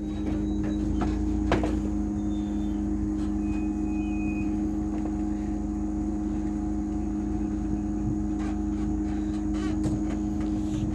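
Heavily loaded car driving, its engine and drivetrain holding a steady drone over low rumble, with a single short knock about one and a half seconds in.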